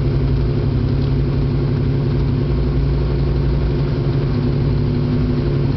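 V12 motorcycle engine running at a steady idle, its pitch and level even throughout.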